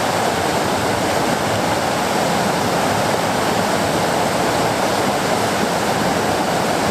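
River rapids: white water rushing over rock in a steady, unbroken wash of noise.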